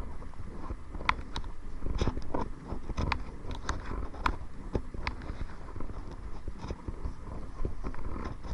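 Kayak paddling into the wind: irregular paddle splashes and small knocks against the boat over a steady low rumble of wind on the microphone.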